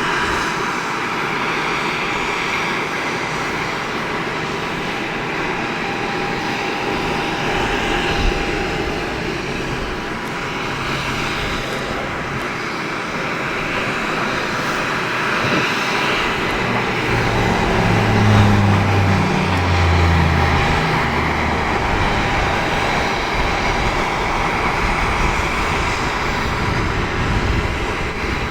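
Embraer EMB 120 Brasilia's Pratt & Whitney PW118 turboprop engines running on the ground, a steady turbine whine over a broad propeller rush. A low rumble swells for a few seconds past the middle.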